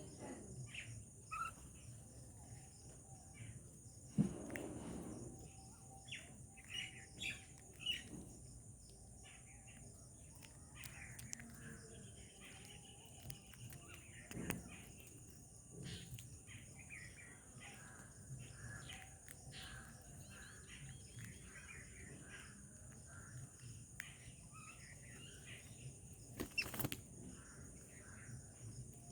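Small birds chirping in short, scattered calls over a steady high-pitched hum. There is a single thump about four seconds in and a sharp click near the end.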